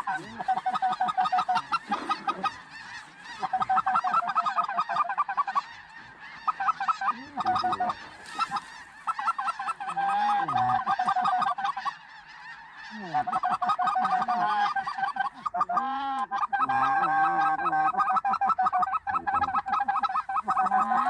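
A large flock of snow geese calling in a dense, continuous chorus of rapid honks that swells and dips in waves.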